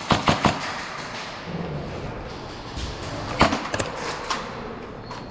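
Airsoft gunfire in close quarters: three quick sharp shots at the start, then after a pause a loud shot about three and a half seconds in followed by a few lighter cracks.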